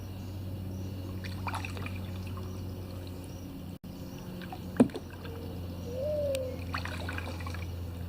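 Kayak paddle strokes, the blades dipping and water trickling off them twice, with a single sharp knock about five seconds in, the loudest sound, and a short squeak just after. A steady low hum runs underneath.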